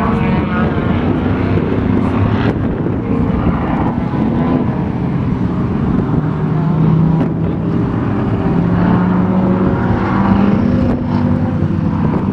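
Two Toyota Corollas racing on a track, their engines revving up and falling back repeatedly as the drivers work through the corners.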